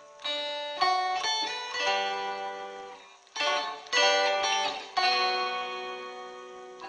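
Background music: a plucked acoustic guitar picking notes and chords, each one ringing and fading.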